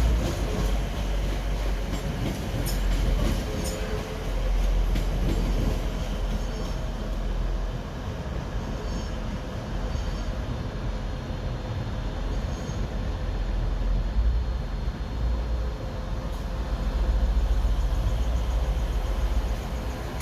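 A train running through a railway station, with a steady low rumble and hum and a few brief high wheel squeals.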